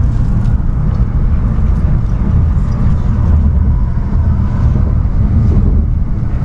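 Steady low rumble of a Shinkansen bullet train running, heard inside the passenger car.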